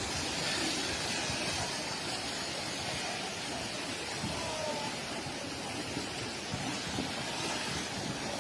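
Floodwater rushing: a steady, even wash of fast-flowing water noise, with wind on the microphone.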